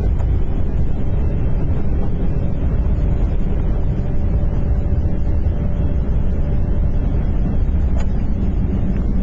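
Boeing 777 landing rollout heard in the cockpit: a loud, steady low rumble of the aircraft running down the runway, with a faint steady hum over it and a single click near the end.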